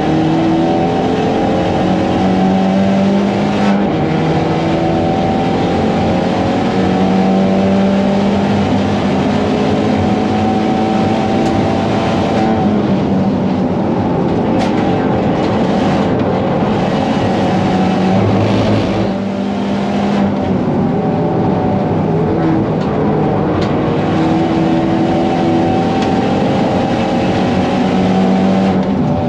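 Hyundai i30N Fastback's turbocharged 2.0-litre four-cylinder, with a flashed ECU and aftermarket downpipe, heard from inside the cabin at racing pace: the engine revs climb hard again and again and break off at each gear change. It drops to a lower note for a couple of seconds around 18 to 20 seconds in before pulling up through the revs again.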